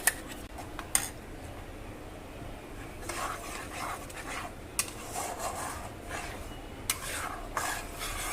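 Metal spoon stirring and scraping thick curry gravy in a kadai, with a few sharp clinks of the spoon against the pan.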